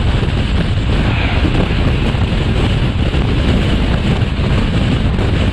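Wind rushing over the microphone and the steady rumble of a passenger train running at speed, heard from an open coach window while another train overtakes on the next track.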